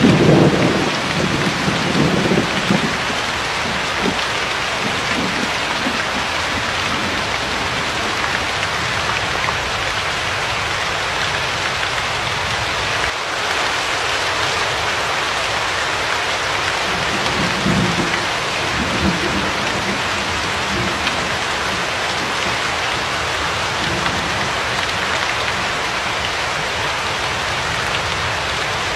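Steady, even hiss of rain falling. Low rumbles of thunder come in the first few seconds and again about two-thirds of the way through.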